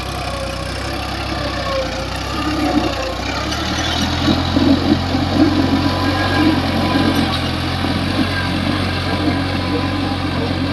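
New Holland tractor's diesel engine running steadily; its note changes and it grows louder about three and a half seconds in.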